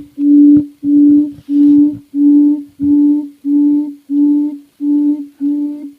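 A small MP3-player speaker plays a repeated low hooting call: about nine short hoots at one steady pitch, roughly one and a half a second, slowly getting quieter.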